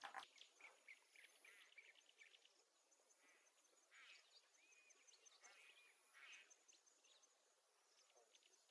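Faint birds chirping: scattered short calls with a few brief whistled notes.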